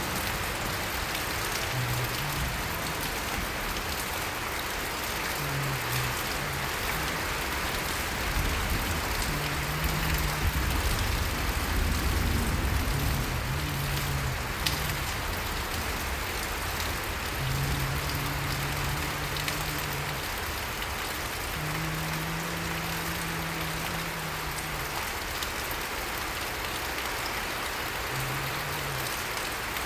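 Steady rain falling, an even hiss throughout. Short low hums come and go, and a deeper rumble swells in the middle for a few seconds.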